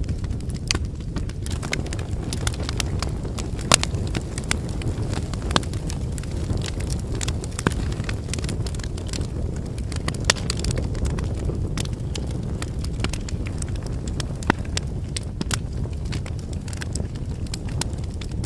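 Wood fire burning: a steady low rumble of flames with irregular crackles and pops of burning firewood, a few sharper pops standing out.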